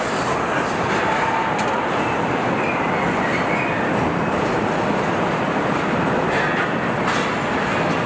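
Steady mechanical din of a truck assembly plant: machinery and conveyors running continuously, with scattered short clicks and knocks.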